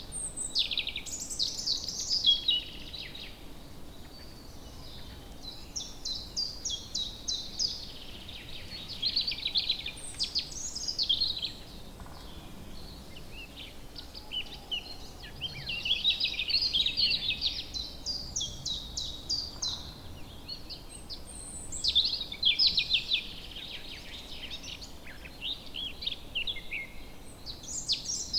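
Woodland birds singing: repeated quick trilling and chirping phrases, a new song every few seconds, over a faint steady background hiss.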